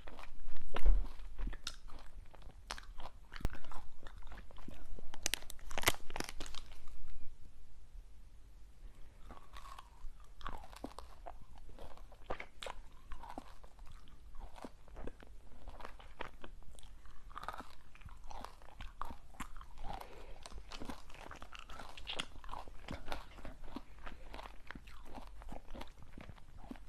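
Crunchy snack being bitten and chewed close to the microphone: a run of loud, sharp crunches in the first several seconds, then quieter, steady crunchy chewing.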